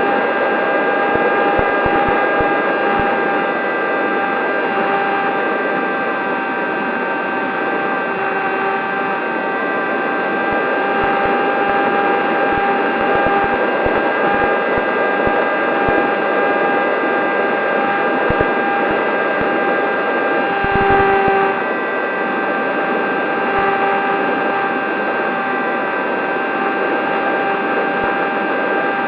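Electric motor and propeller of a ZOHD Talon GT Rebel RC plane whining steadily at constant throttle in flight, over a rushing noise, with a few faint low thumps.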